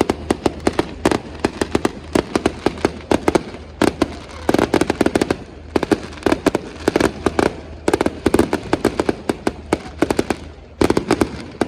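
Fireworks display: rapid volleys of sharp bangs and crackling, coming in dense clusters with brief lulls between them.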